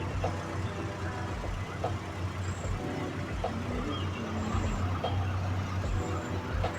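Motor vehicle engine idling with a steady low hum, with faint voices and a few light clicks and knocks over it.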